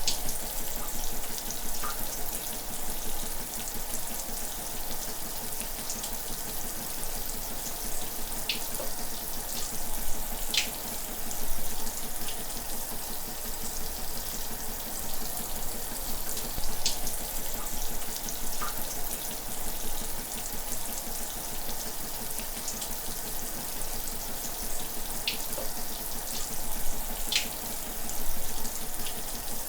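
Shower running: a steady spray of water with a few brief sharp splash ticks scattered through.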